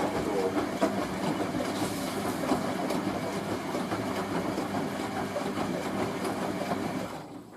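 Hoover A3060 Electronic 1100 washing machine running mid-rinse, its motor and drum going steadily with a busy rattle of small knocks. The noise cuts off about seven seconds in.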